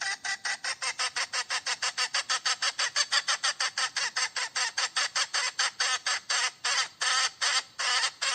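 Hen cackling: a fast run of short, sharp calls, about five or six a second, that spaces out near the end and stops abruptly.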